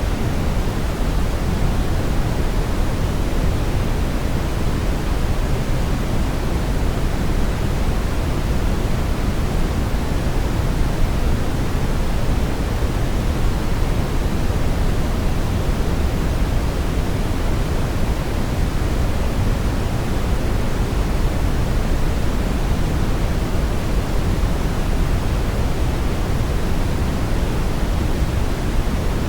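Steady brown noise: a deep, even rushing hiss, strongest in the bass and falling away toward the treble, with no change.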